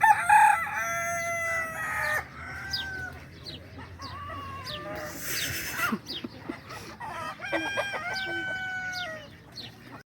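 Rooster crowing: one long crow at the start and another about three-quarters of the way through, with shorter calls and quick chirps in between. The sound cuts off just before the end.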